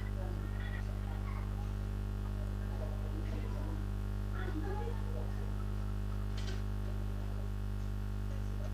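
Steady electrical hum on the call's audio line, with evenly spaced overtones, and faint, indistinct voices in the background.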